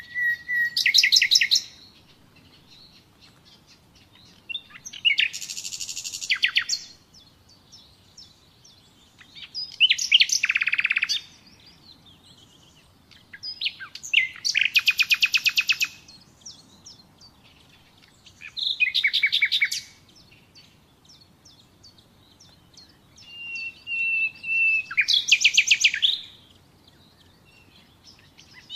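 Common nightingale singing: six separate song phrases, each a fast run of repeated notes and trills, some opening with a long pure whistled note, with short pauses between phrases.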